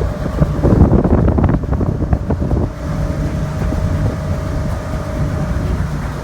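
Steady low drone of a ferry's engines, with wind buffeting the microphone in a gusty stretch about a second in.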